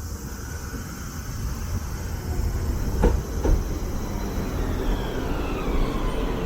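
Portram light-rail tram running on its tracks: a low rumble that grows louder, two clacks about half a second apart around the middle, and a whine falling in pitch near the end.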